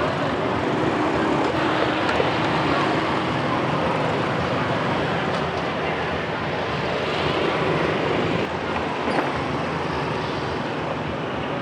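Steady traffic noise of a busy street, with motorcycles passing.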